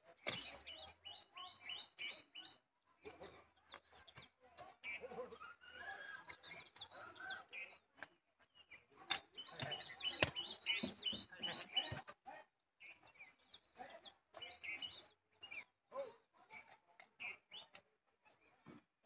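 Small birds chirping and twittering, with quick runs of short high notes, and a few sharp knocks among them.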